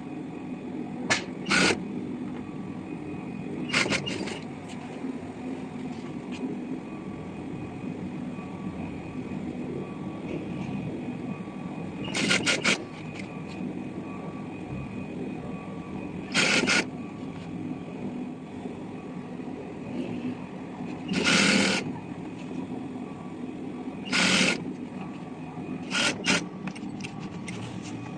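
Pneumatic upholstery staple gun firing single shots, each a short sharp hiss-bang, about eight times at uneven intervals a few seconds apart, over a steady low hum.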